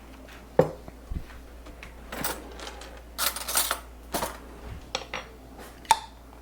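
Kitchen utensils and containers being handled: a spoon and jars clinking, knocking and scraping on the counter, in a handful of separate clicks and short scrapes.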